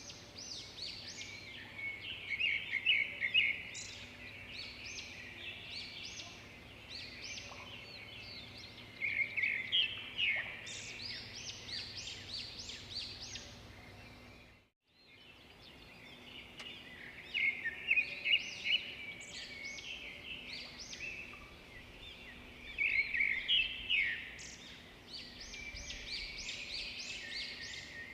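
Several songbirds chirping and trilling rapidly, in dense bursts, over a faint steady background. The sound cuts out completely for a moment about halfway through.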